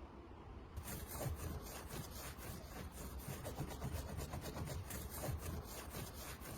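Rapid back-and-forth rubbing or scraping strokes, about three or four a second, starting about a second in: hand abrasive work such as sanding, scrubbing or brushing on a heater part being restored.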